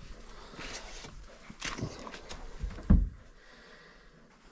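Rustling and handling noises, with one sharp knock a little before three seconds in.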